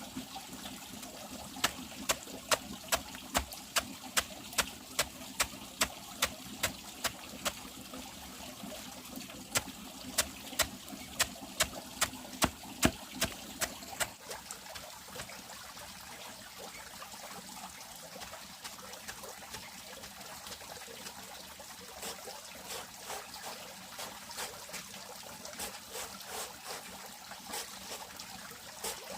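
Water trickling, with sharp taps or knocks about twice a second that stop about halfway through. Fainter, scattered taps follow later.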